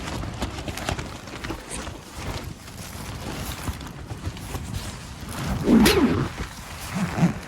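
Gale-force wind and rain on a small one-person tent, heard from inside: the fabric flaps and rustles in a steady noisy wash, broken by many small taps and clicks. A louder burst of sound comes about six seconds in.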